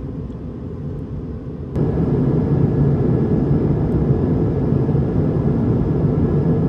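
Cabin noise inside an Airbus A220-300 jet in flight: a steady low rumble of engines and airflow. About two seconds in it jumps suddenly louder and carries on at the higher level.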